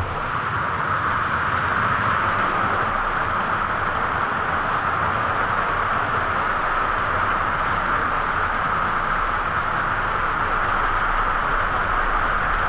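Steady rushing noise of a waterfall pouring into its pool, an even roar with no breaks.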